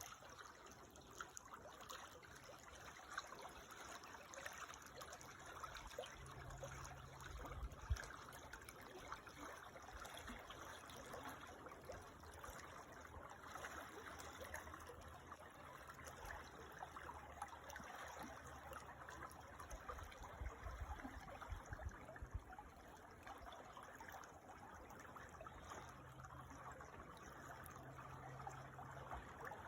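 A small creek trickling and babbling quietly over stones, a steady, fine-textured water sound, with a couple of brief low rumbles about six and twenty seconds in.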